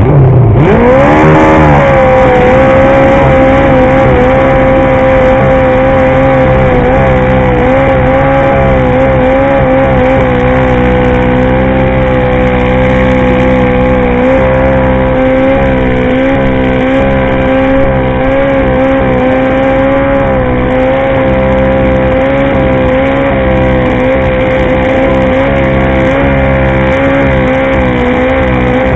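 Pulling garden tractor's engine revving up sharply in the first second or two, then held at a steady high, full-throttle pitch as it drags the weight sled, wavering only slightly.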